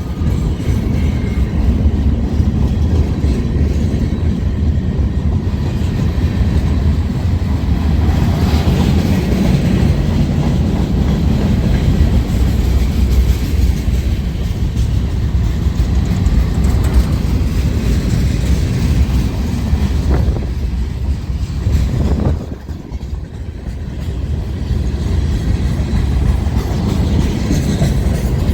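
Freight train rolling past: a steady, loud rumble of wheels on rail, with a brief dip in loudness about 22 seconds in.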